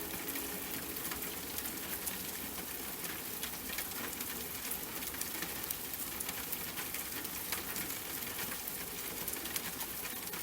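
Rain falling steadily, a dense hiss with many small drops ticking throughout.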